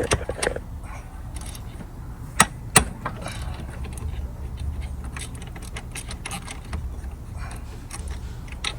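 Ratchet wrench with a 10 mm socket clicking and metal tools clinking while the EGR valve bolts are undone, with two sharper metal knocks a few seconds in.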